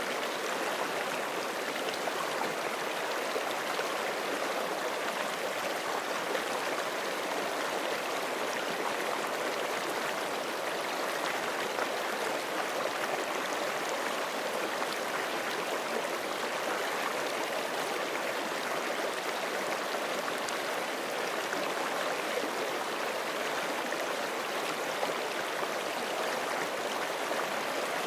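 Forest creek flowing over rocks, a steady rushing and burbling of running water.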